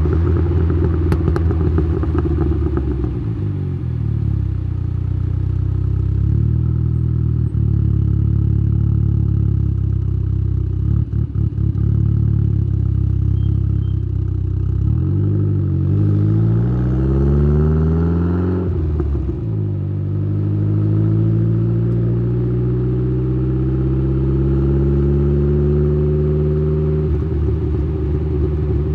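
Exhaust note of a tuned Saab 9-3's turbocharged B204 2.0-litre four-cylinder (TD04-19T turbo, 3-inch downpipe, Simons muffler), heard close at the tailpipe while driving. Revs fall at first and hold fairly steady for a stretch. Past the middle they climb, drop sharply at a gear change, then climb slowly and steadily through the rest.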